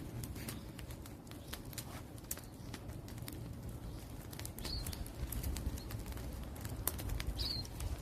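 Wood fire crackling, with irregular sharp pops and snaps over a low steady rumble. A bird gives two short high chirps, about five seconds in and near the end.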